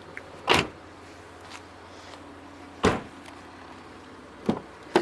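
Four short clunks of a Land Rover Discovery 4's fittings being moved and shut: one about half a second in, one near the three-second mark, then two close together near the end.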